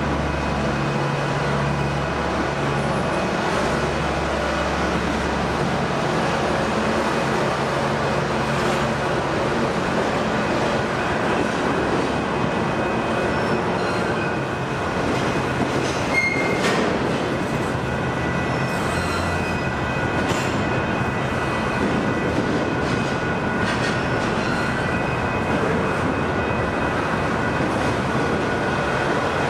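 Intermodal freight cars rolling past at close range: a steady rumble of steel wheels on rail, with thin squealing tones from the wheels and a single sharp knock about sixteen seconds in.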